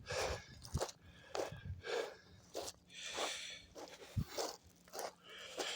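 Footsteps on soft, sandy ground, a scuffing step roughly every half second or so.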